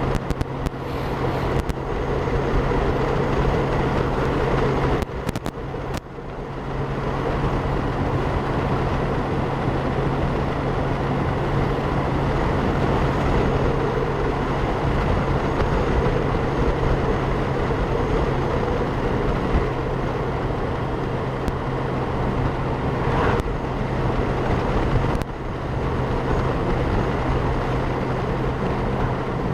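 Wind rushing over a helmet-mounted camera microphone on a moving motorcycle, with the Honda Gold Wing's engine and road noise as a steady hum underneath. The level dips briefly twice.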